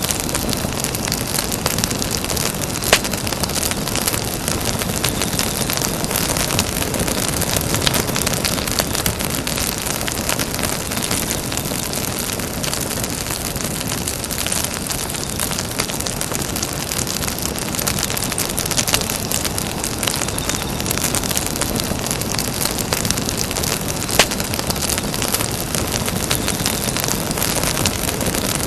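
Campfire burning with a steady hiss and constant fine crackling, with a few sharper pops from the burning wood now and then.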